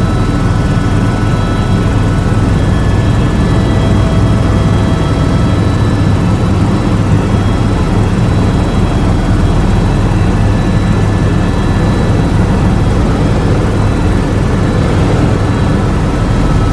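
Tour helicopter in flight: a loud, steady rotor and engine drone with a strong low hum.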